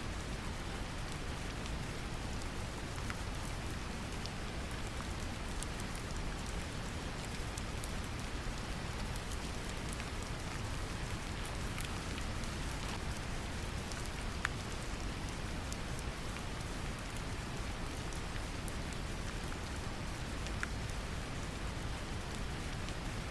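Brown noise mixed with gentle rain: a steady deep rumble of noise, with rain falling evenly and scattered droplet ticks on top.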